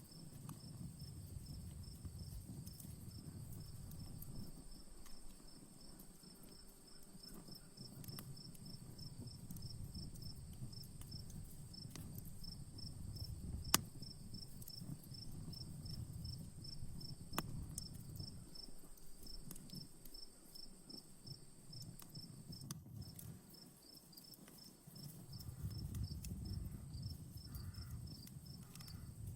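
Campfire crackling with a few sharp pops, the loudest about halfway through, over a low, wavering rumble. Crickets chirp throughout in a rapid, even run, pausing briefly about two-thirds of the way through.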